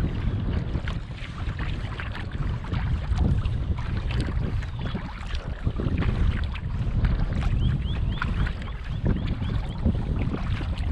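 Wind buffeting the microphone on a kayak, with paddle splashes and drips. In the second half a bird calls a quick run of short, arched notes.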